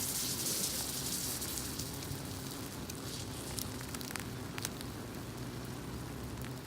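Food frying on a thick iron griddle, its wasanbon-sugar-topped side face down and caramelizing: a steady sizzling hiss with a few sharp pops.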